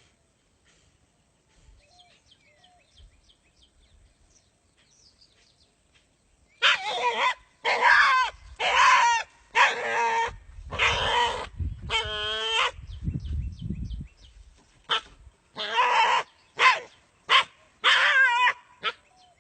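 Dog barking: about a dozen loud barks, starting some seven seconds in, with a longer wavering yelp near the middle.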